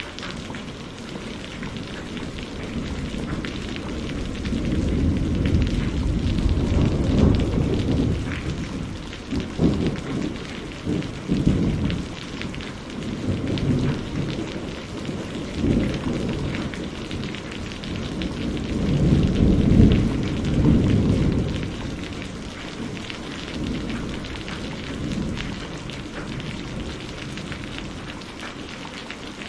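Steady heavy rain with rolling thunder: two long low rumbles swell and fade, the second, a little past the middle, the loudest.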